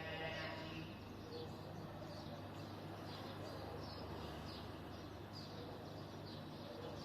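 Sparrows chirping: many short, quick, falling chirps in irregular succession over a steady low background hum.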